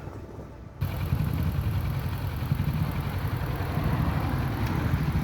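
Motorcycle engine idling steadily, cutting in abruptly about a second in.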